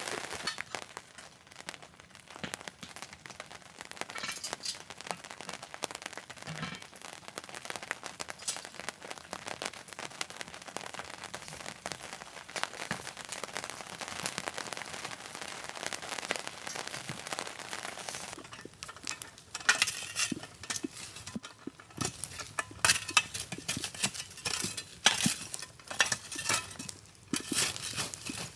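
Rain pattering, with a thick run of irregular crackles and sharp clinks that grows louder and busier in the last third.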